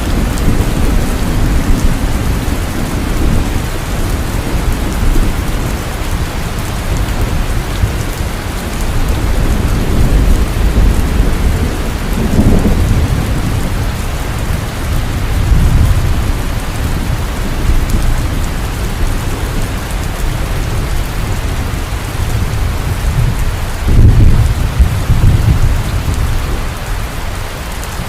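Heavy rain falling steadily with rolling thunder. The thunder swells several times, loudest in a rumble near the end.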